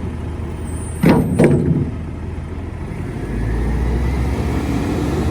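Mack MRU garbage truck with a McNeilus rear-loader body: the diesel engine runs steadily, two loud metal clanks come about a second in, then the engine revs up with a faint rising whine, as for the hydraulic packer cycle.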